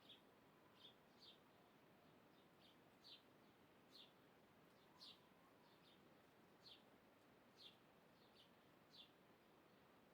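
Faint bird chirps: short, high calls, each falling slightly in pitch, repeated irregularly about once a second over a low, steady hiss.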